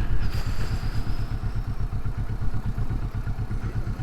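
Motorcycle engine running at low speed, a steady low pulsing beat.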